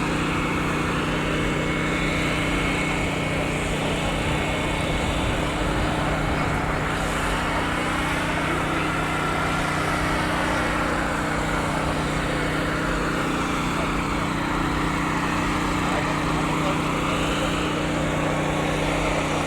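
An engine running steadily with a low multi-tone hum. About eight to twelve seconds in, a fainter higher tone slowly rises and falls in pitch.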